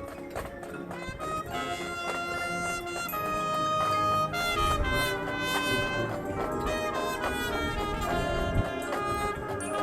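Marching band playing a jazzy, New Orleans-style tune, with the brass carrying held, changing chords over percussion.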